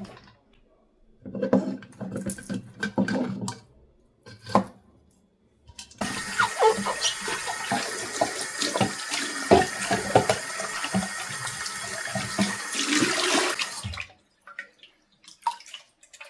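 Tap water running into a sink for about eight seconds, with splashing as something is rinsed under the stream, then shut off abruptly. Before it come a few short knocks and handling sounds.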